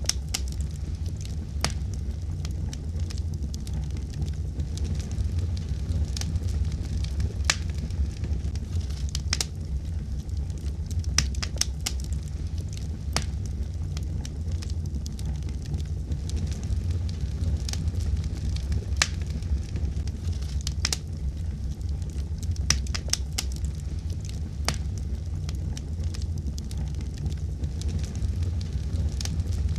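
Wood fire burning steadily in a fireplace, a low rumble of flame under irregular sharp crackles and pops, some in quick clusters.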